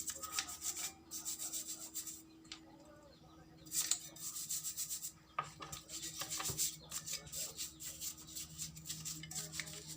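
Quick repeated rubbing strokes, as in scrubbing a scooter carburetor clean, with a pause of a second or two about two seconds in. A steady low hum runs underneath.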